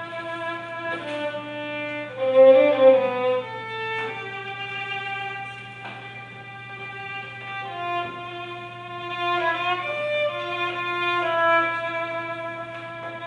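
Violin music: a slow melody of long held notes, loudest about two to three seconds in, over a steady low hum.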